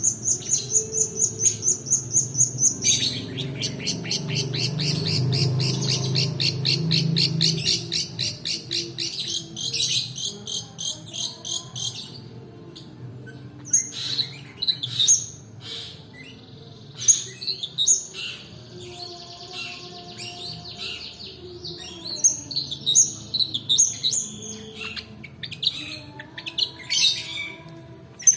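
Long-tailed shrike (pentet) song used as a lure: a fast, rolling trill of rapidly repeated high notes, about eight a second, for roughly the first twelve seconds. It then breaks into scattered, varied chirps and short calls. A low hum sits under the trill for a few seconds.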